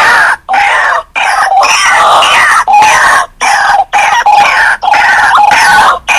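White-breasted waterhen calling: loud, harsh, repeated croaking calls in rapid phrases, broken by short pauses.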